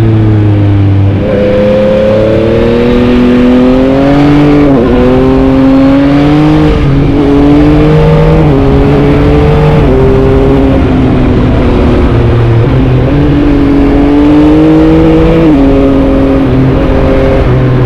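Yamaha MT-09's three-cylinder engine accelerating hard. The pitch climbs, drops abruptly and climbs again five or six times as it shifts through the gears.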